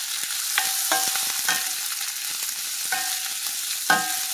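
Sliced onions and sweet peppers sizzling in a hot cast-iron skillet while a spoon stirs them. The spoon knocks and scrapes against the pan about five times, each knock with a short ring, the loudest about four seconds in.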